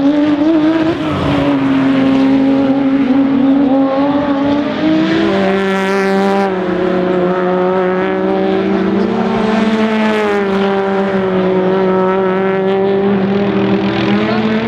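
Porsche rally car engine running hard at high revs, with a steady high note that drops about a second in, jumps up about five seconds in, and drops again later, as the driver changes gear and lifts.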